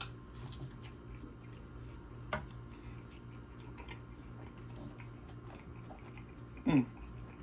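Quiet chewing of steak with small wet mouth clicks, one sharper click a little over two seconds in, and a short falling vocal hum near the end.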